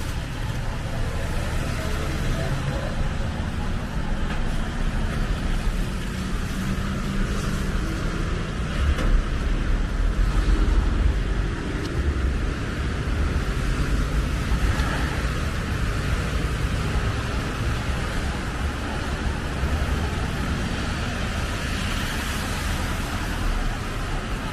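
Road traffic: vehicles passing on a city street, a steady low rumble with a hiss, one passing louder about nine to eleven seconds in.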